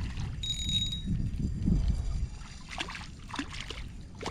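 Water sloshing and splashing at a kayak's side while a freshly hooked panfish is brought in, over a steady low rumble, with a brief high thin whine about half a second in and a few quick splashes in the second half.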